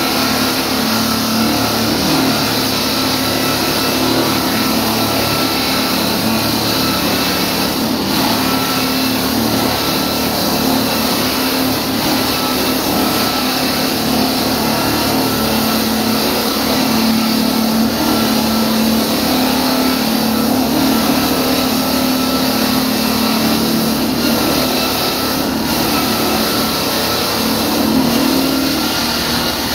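Diamond concrete-cutting saw running steadily under load, a loud continuous engine tone with a dense grinding hiss that wavers slightly in pitch.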